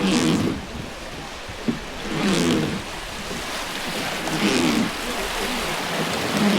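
Steady rush of river water around a boat, with a splashing surge and a brief voice repeating about every two seconds.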